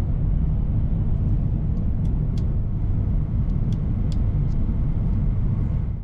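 E3 series Shinkansen train running, heard inside the passenger car: a steady low rumble, with a few faint clicks about two to four seconds in.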